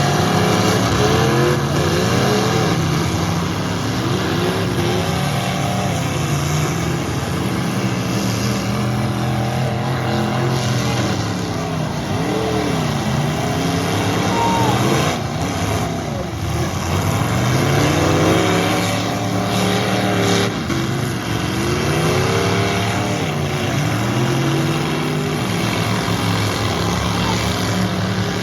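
Engines of full-size pickup trucks in a demolition derby, revving hard and dropping back over and over, their pitch rising and falling every second or two.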